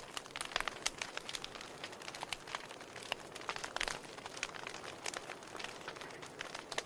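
Wood fire in a fireplace crackling, with frequent sharp pops and snaps over a steady hiss.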